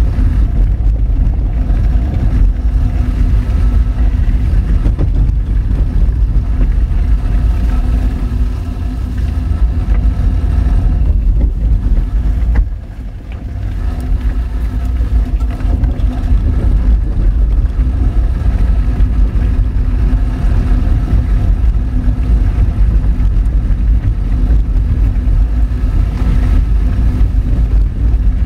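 Honda Fit driving on a rough gravel forest road: its engine running steadily under a heavy low rumble from the car on the rocky surface. The level drops suddenly for a moment about 13 seconds in, then builds back up.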